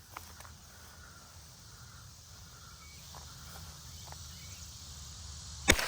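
Several seconds of quiet outdoor background with a low hum and faint ticks, then a single gunshot near the end, fired at a pressurised fire extinguisher, with a short hiss trailing after it.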